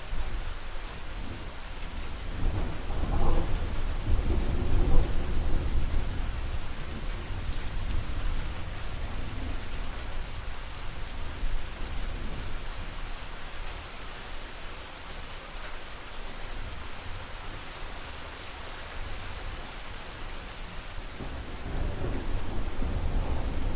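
Steady rain with rolling thunder: low rumbles swell about three to six seconds in and again near the end.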